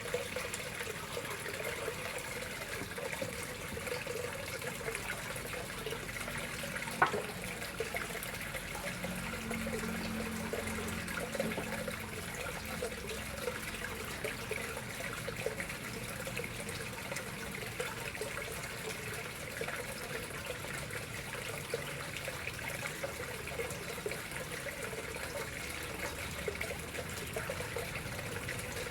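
Water steadily trickling and splashing into a koi pond, with one sharp click about seven seconds in.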